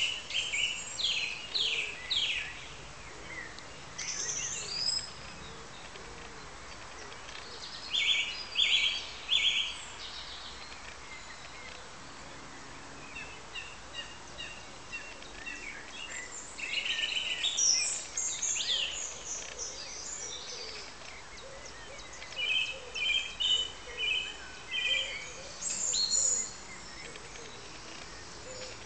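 Small birds singing, with clusters of short, high chirping phrases every few seconds over a steady background hiss.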